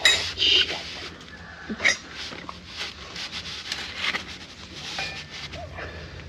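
Metal sockets and tools clinking as they are picked through: a sharp ringing clink at the start, another about two seconds in, then lighter scattered clicks.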